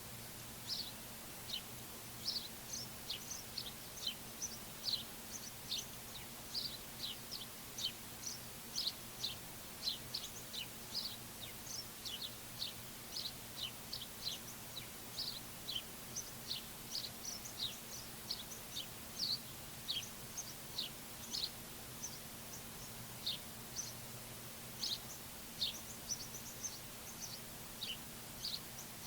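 Small songbirds chirping over and over: short, high, downward-slurred chirps, two or three a second, with a faint steady low hum underneath.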